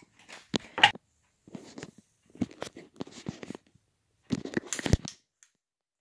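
Hands handling small parts, with clicks and crinkling in four short bouts, the sharpest clicks about a second in and near five seconds in.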